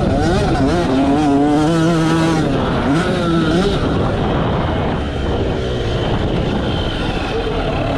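Yamaha YZ85 two-stroke single-cylinder engine revving, its pitch climbing and dropping several times in the first few seconds as the throttle is worked, over heavy wind and track noise.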